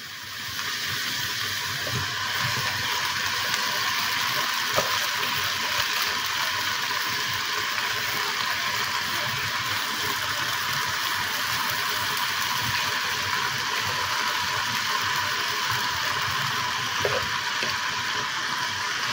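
Kangkong (water spinach) leaves sizzling steadily in a hot frying pan as they are tipped in by hand. The sizzle swells up about half a second in.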